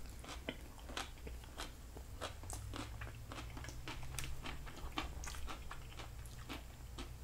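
Close-miked chewing of a mouthful of broccoli: many small, irregular crunches and wet mouth clicks, over a steady low hum.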